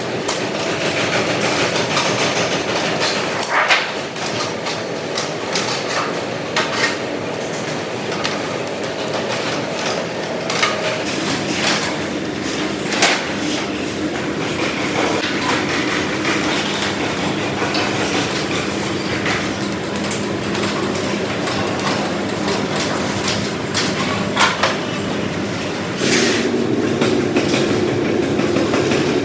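Factory machinery running steadily with scattered metallic clanks and knocks, the kind of din heard on a washing machine production floor. The steady sound shifts partway through and grows louder near the end.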